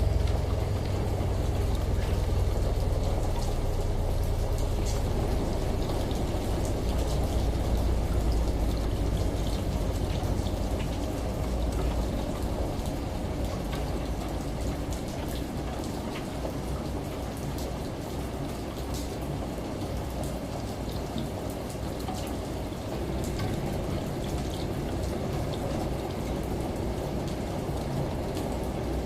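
Steady rain and running water with many small drop ticks, over the low rumble of a washing machine that fades about halfway through.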